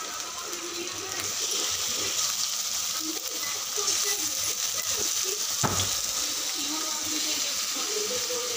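Chicken pieces sizzling in hot oil and masala in an aluminium kadai while a steel ladle turns them, with a steady frying hiss. One sharp metal knock comes about two-thirds of the way through.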